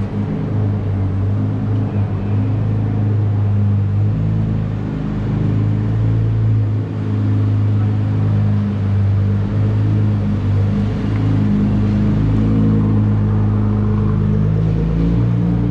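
Car engine idling: a steady, deep low note with small shifts in pitch.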